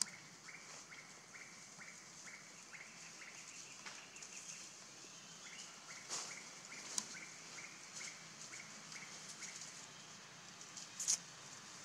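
Forest ambience: a bird repeats a short note a little over twice a second, in two runs with a pause between them, over a steady high hiss. A few sharp clicks stand out, the loudest near the end.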